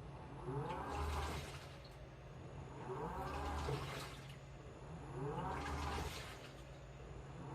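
Washing machine in its wash cycle: the motor turns the drum in short spells, each starting with a rising whine and a low hum, with water sloshing inside, about three spells here, one every two and a half seconds.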